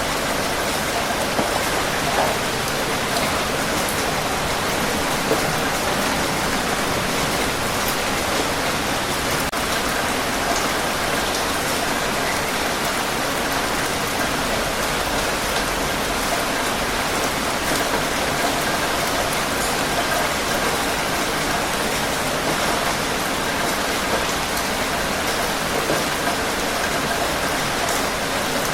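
Steady heavy rain falling, a dense even hiss with many small drop ticks on a surface.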